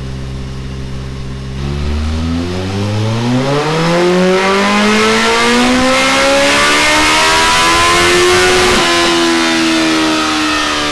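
Kawasaki ZZR1400 inline-four engine through a Delkevic X-Oval titanium exhaust, pulled on a dynamometer. It runs steady for a moment, then climbs in pitch for about seven seconds as it accelerates through the revs. Near the end it eases off, the pitch slowly falling.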